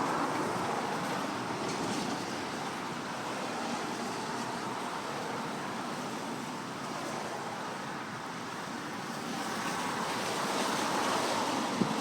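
Steady rushing of storm wind, with no distinct separate sounds, swelling a little near the end.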